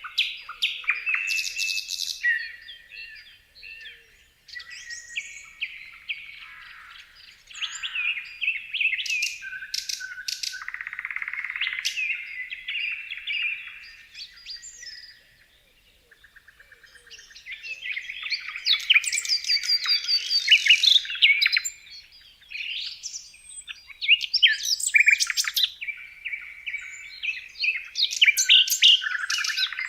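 Several birds chirping and calling over one another in short, overlapping phrases. There is a brief lull about halfway through, then a rapid trill before the chorus picks up again.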